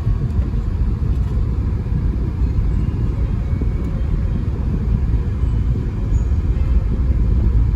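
Audi A6 driving on the road, heard from inside the cabin: a steady low rumble of engine and tyre noise, growing a little louder near the end.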